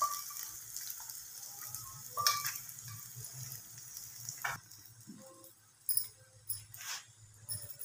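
Paratha frying in oil in a nonstick pan: a hissing sizzle with a few crackles, which drops to fainter, scattered pops after about four and a half seconds.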